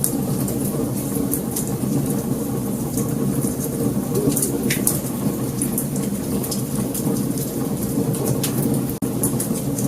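Wood fire burning with a steady low rumble and frequent sharp crackles and pops, one louder pop about halfway through. The sound drops out for an instant near the end.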